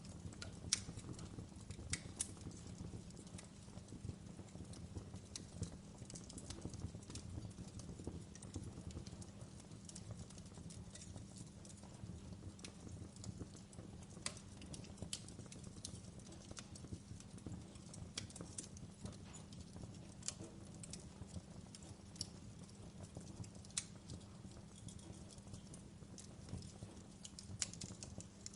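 Wood fire burning in a fireplace: a low steady rumble with irregular sharp crackles and pops.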